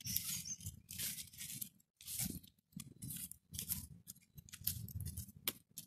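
Campfire embers and burnt wood being raked apart, giving faint, irregular crunching and scraping in short bursts with brief pauses.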